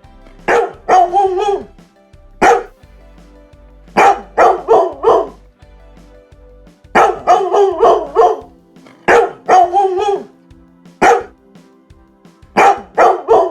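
A dog barking in short runs of one to five barks, with pauses between the runs, over faint background music.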